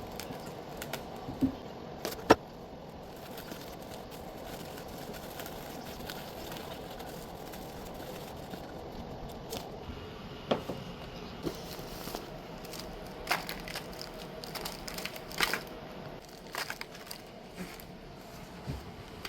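Scattered short clicks and knocks, irregularly spaced, over a faint steady background noise; the sharpest knock comes about two seconds in.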